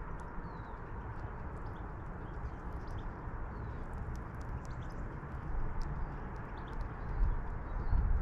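Small birds at a feeder: scattered light clicks and taps with a few faint short chirps, over a steady low rumble like wind on the microphone.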